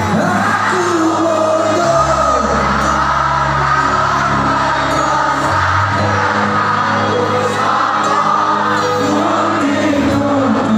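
Live band performance of a pop song: held bass notes under a sung melody, with crowd noise.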